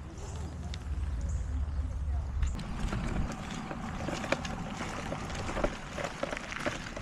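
Low wind rumble on the microphone for the first couple of seconds, then indistinct voices mixed with clicks and knocks.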